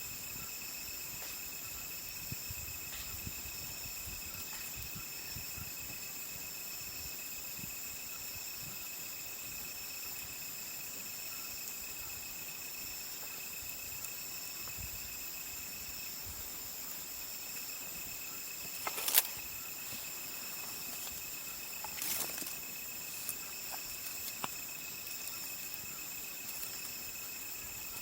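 Insects chirring steadily at several high pitches, with a campfire of burning wood giving occasional cracks and pops; the loudest crack comes about two-thirds of the way through, followed by a small cluster of pops.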